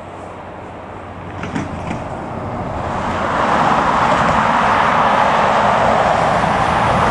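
Jet airliner's engines, a broad rushing roar that swells over a few seconds and then holds loud.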